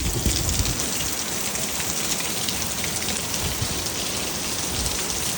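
Hail and heavy rain pelting down, a dense steady patter of countless small hits that sets in suddenly at the outset. Storm wind gusts against the microphone underneath.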